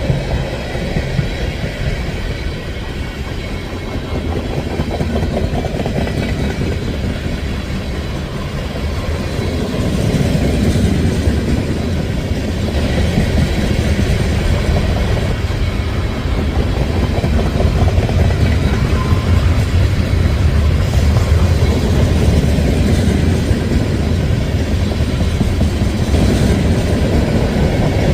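Freight train's covered gondola cars rolling past at speed: a steady rumble of wheels on rail with clattering over the rail joints, growing a little louder about halfway through.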